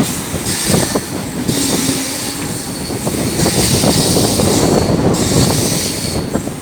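Suburban electric train running on the rails: a steady rumble with irregular clattering knocks from the wheels, and a high squeal that comes and goes about four times.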